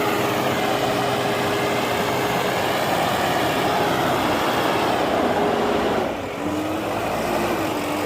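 Heavy vehicle's diesel engine running steadily under load, its pitch and level dropping about six seconds in as the engine slows.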